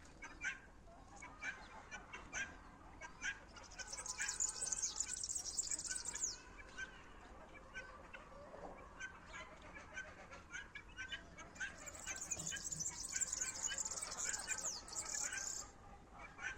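Songbird singing: scattered short high chirps, with two longer bouts of rapid, high twittering notes about four seconds in and again about twelve seconds in, each lasting a few seconds.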